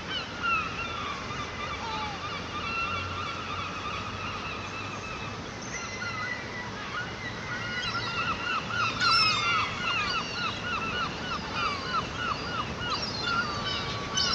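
A flock of gulls calling, many overlapping drawn-out cries, turning in the second half into a fast run of short repeated calls, several a second, over a steady background hiss.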